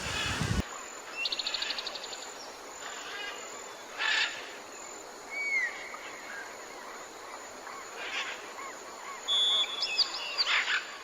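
Several outdoor wild birds calling: a rapid trill about a second in, a short down-slurred whistle midway, and several brief harsh calls, the loudest near the end.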